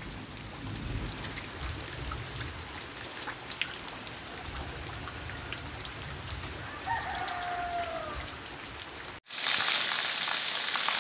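Rain falling steadily on wet ground, with scattered drops ticking, and a rooster crows briefly about seven seconds in. Near the end the sound switches suddenly to a louder, heavier downpour hissing on a street, with water pouring off a roof.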